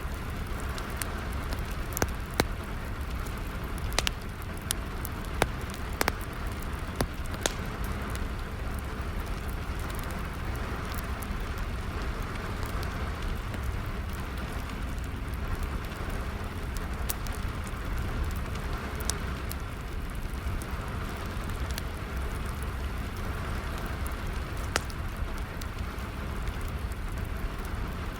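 Steady rain with a wood fire crackling, sharp pops scattered through it, most of them in the first several seconds.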